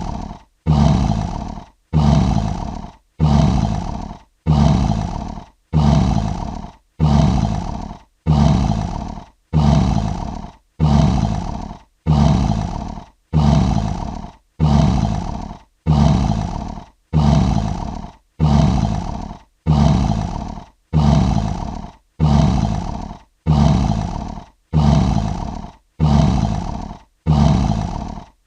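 Lion roar sound effect looped tightly: the same short roar repeats about once a second, each one starting loud and fading before the next.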